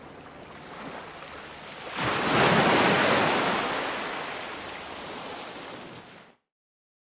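Ocean surf: a wave breaks about two seconds in and washes out slowly over the next few seconds. Near the end the sound cuts off suddenly to dead silence.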